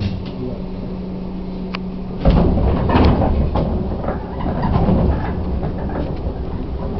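Chichibu Railway 1000 series electric train heard from inside a car: a steady hum while it stands, then about two seconds in a sudden loud rise of motor and wheel rumble with knocks and clunks as the train moves off and picks up speed.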